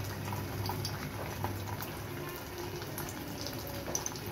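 Egg-dipped chicken shami kabab shallow-frying in hot oil, sizzling with a steady patter of small crackles. A low steady hum runs underneath.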